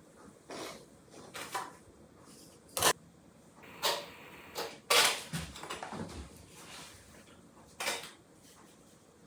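Irregular knocks and clatters of objects being handled and set down, about eight in all, the loudest just before three seconds in and around five seconds in.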